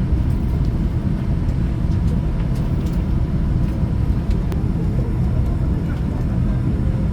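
Steady low rumble inside an airliner's cabin before departure, the continuous noise of the aircraft's air-conditioning and systems running.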